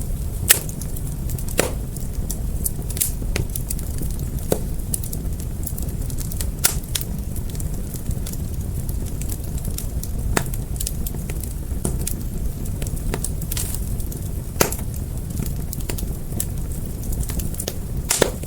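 Fire crackling: scattered sharp pops and snaps, a few louder than the rest, over a steady low rumble.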